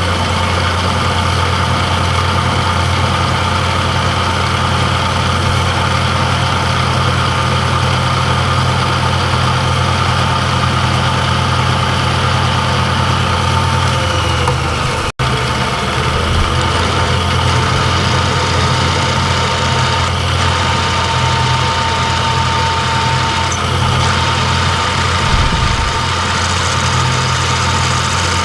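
Machine tool running steadily with a loud low hum, briefly cutting out about halfway through.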